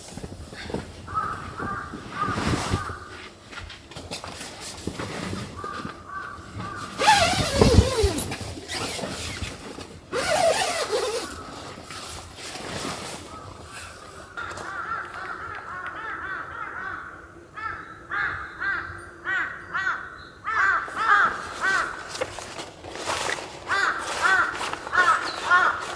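Crows cawing in a long series of short, repeated calls, the calls coming thicker in the second half. A louder sound falling in pitch comes about seven seconds in, and scattered sharp taps and clicks run underneath.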